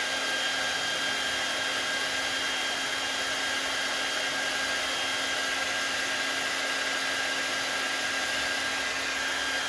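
Handheld hot-air blower running steadily at full power, a rush of air with a steady whine over it, heating vinyl wrap film to soften it.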